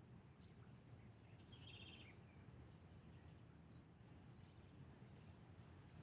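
Faint, steady, high insect trill with a cricket-like pulse, joined by a short bird chirp about one and a half seconds in and a couple of brief high chirps later.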